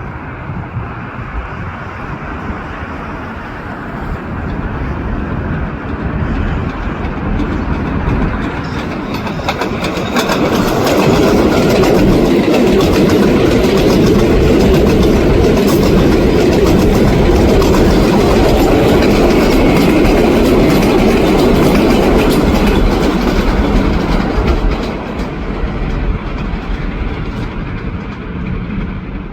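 A New York City 7 subway train of R188 cars running past on the elevated Flushing Line, with steel wheels on rail. It grows louder over the first several seconds, stays at its loudest for about thirteen seconds in the middle, then eases off near the end.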